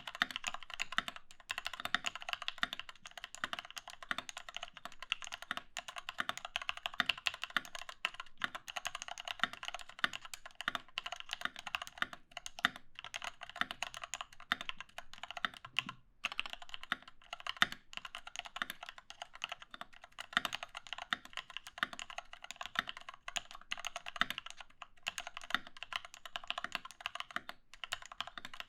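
Continuous fast typing on a Doro67 mechanical keyboard with lubed linear Cherry MX Retooled Black switches on 62g springs and XDA keycaps: a dense run of keystroke clacks, briefly pausing about halfway through.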